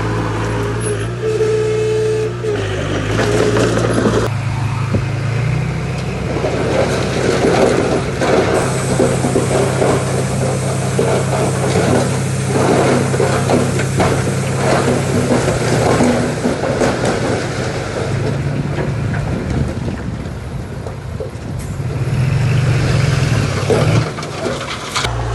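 Heavy diesel earthmoving machinery running under load, the engine note rising about five seconds in and again near the end, with a dense rattling clatter of stone or steel through the middle.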